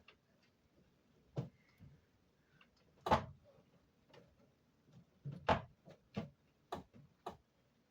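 A series of irregular knocks and clunks, about eight in all, as a window air conditioner unit and its fittings are handled and worked into the window frame; the loudest comes about three seconds in, with a quick cluster in the second half.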